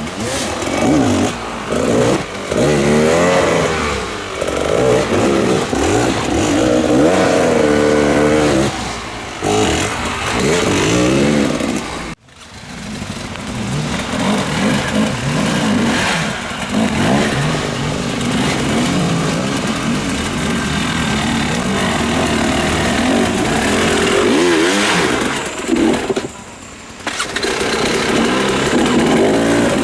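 Motorcycle engines running and revving, the pitch rising and falling with the throttle. The sound drops out abruptly about twelve seconds in, then comes back.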